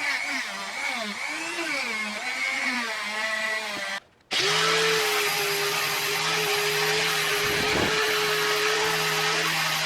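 Electric power tool motor, drill-like, working the rusty iron of a hand-forged pick-hoe. Its pitch rises and falls under changing load for about four seconds, then breaks off briefly. It then runs on at a steady pitch.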